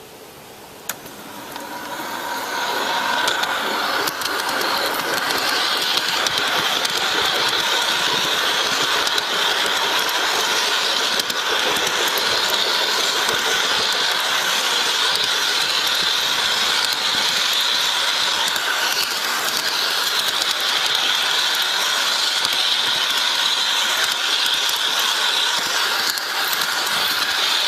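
Garden-scale model train running on its track: a steady motor and gear whine with rapid light clicking of wheels on rail, building up over the first couple of seconds.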